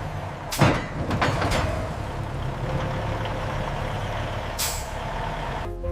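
Truck engine running with a steady low rumble, with sharp air-brake hisses about half a second in, again about a second later, and once more near the end.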